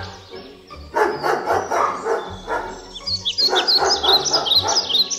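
A dog barking in quick runs of short barks, with high bird chirps joining in the second half, over background music.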